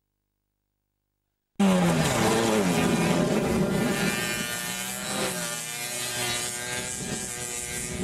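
Silent for about the first second and a half, then a car engine revs hard as the car drives off across a dirt track. Its pitch drops, then rises and falls with the throttle.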